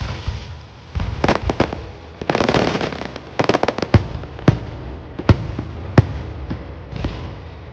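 Aerial fireworks going off: quick crackling flurries in the first half, then four separate sharp bangs about half a second to a second apart.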